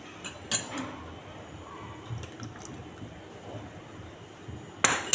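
Ingredients and liquid being added to a pot of chicken stock, with light clinks, then two sharp clanks of a utensil or container against the pot near the end.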